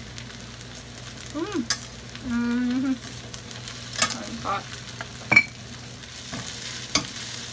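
Stir-fried glass noodles and vegetables sizzling steadily in a steel frying pan over the flame. A few sharp clinks come from the spatula and chopsticks against the pan in the second half.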